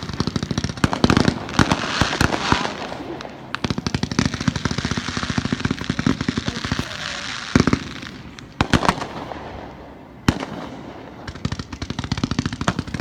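Fireworks display: shells bursting with loud booms over dense rapid crackling and popping, thinning out for a moment about nine seconds in before the popping picks up again.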